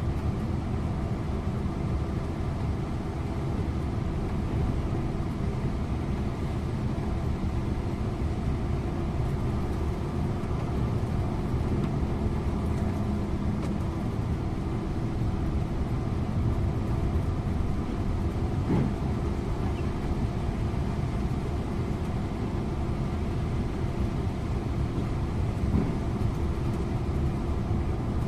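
Scania InterLink coach under way, heard from the driver's seat: a steady diesel engine drone and road noise with an even low hum.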